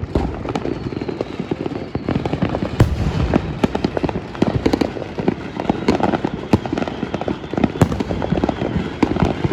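Many fireworks and firecrackers going off at once: a dense, continuous run of overlapping sharp pops and bangs, with a few louder bangs standing out.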